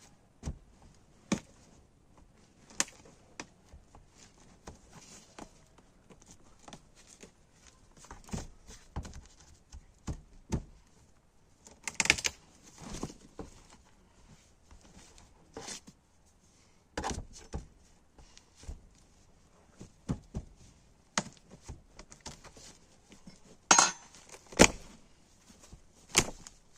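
Irregular knocks and metallic clinks of small hard objects being handled and set down, with a few louder knocks about halfway through and near the end.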